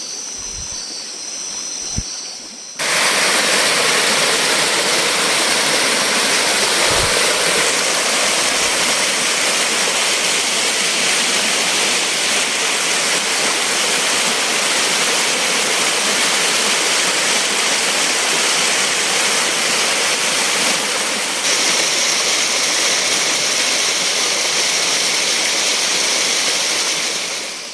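Loud, steady rushing of water that starts abruptly about three seconds in and holds unbroken. Before it, insects chirr steadily at a high pitch.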